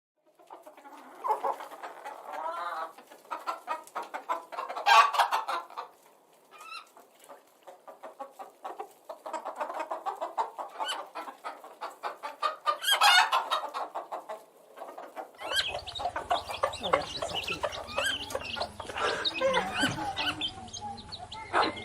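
Hens clucking: a run of short, choppy calls with a few louder squawks, and a low hum in the background during the last third.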